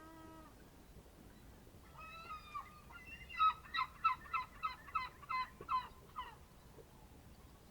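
A bird calling: a short low call at the start, then a few notes, then a rapid series of about ten loud, harsh notes at roughly three a second that stops about two-thirds of the way through.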